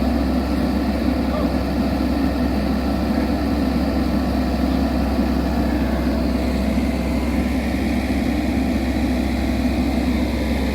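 Small excavator's engine running steadily.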